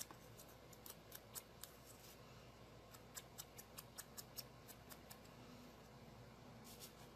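Faint, quick light taps of a sponge dauber dabbing ink onto cardstock, a few a second in short runs with brief pauses.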